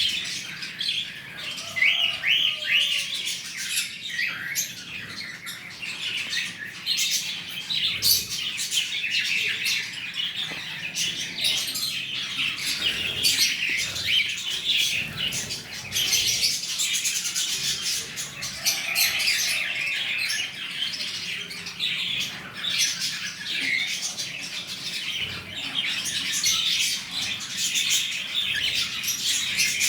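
Cockatiel chirping in a busy, continuous run of short, high calls.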